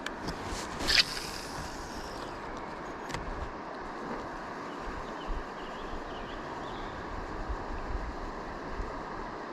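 Steady rush of wind and moving river water on an outdoor microphone, with a short sharp noise about a second in.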